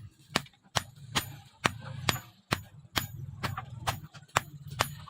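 Hammer striking leaf-spring steel on an anvil in a steady rhythm, about eleven ringing metallic blows, a little over two a second.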